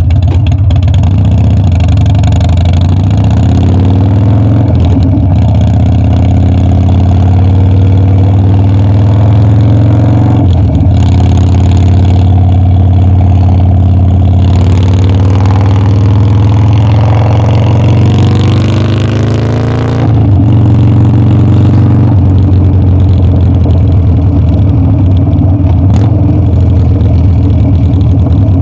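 Harley-Davidson Dyna's air-cooled V-twin running under way, its engine note climbing and dropping as the bike accelerates and eases off. There are brief breaks in the note about ten and twenty seconds in, typical of gear shifts.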